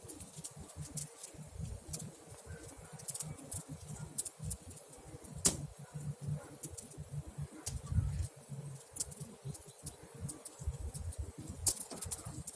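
Campfire crackling, with irregular sharp pops and one louder pop about five and a half seconds in.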